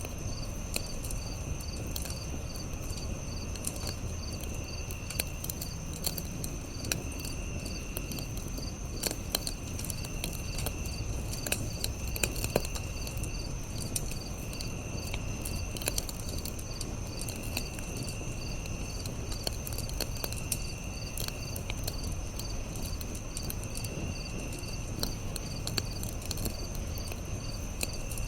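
Campfire crackling with scattered sharp pops and snaps over a low steady rush, under crickets chirping in a fast, even pulse. A second, lower insect trill comes and goes in stretches of about a second, every two to three seconds.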